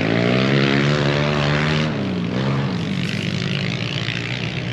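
Pit bike engines revving as the riders race past. The engine pitch climbs near the start, holds, then drops about two seconds in. A second rise and fall follows, and the sound fades toward the end.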